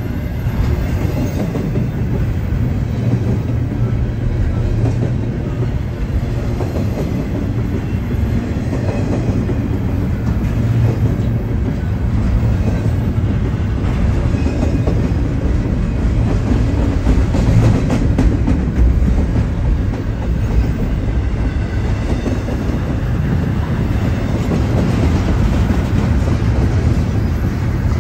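BNSF double-stack intermodal freight train passing close by, its well cars' steel wheels running steadily on the rails with occasional clacks over the track.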